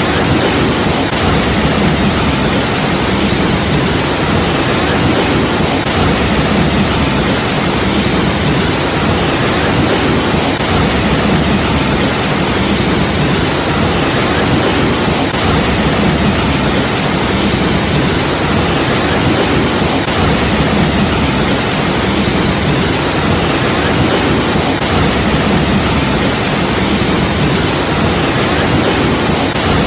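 Waterfall: falling water crashing steadily into a pool, a loud, even rushing that does not change.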